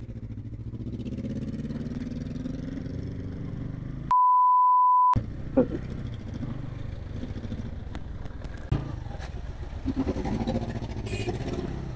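Bajaj Pulsar N160 motorcycle engine running steadily at low revs while creeping through slow traffic. About four seconds in, a steady one-second beep cuts out all other sound: an editor's censor bleep.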